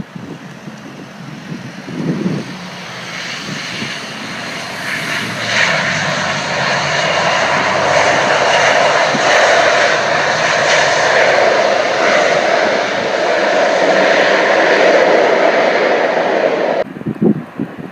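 ATR 72-600 turboprop on its landing, its engines and propellers swelling to a loud steady roar as it passes, then cutting off abruptly near the end.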